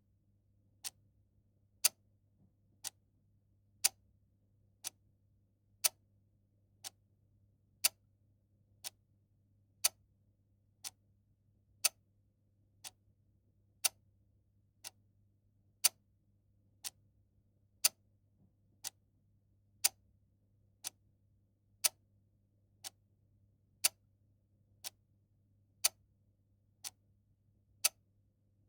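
Clock ticking about once a second in an even tick-tock, the sharp clicks alternating louder and softer, over a faint steady low hum.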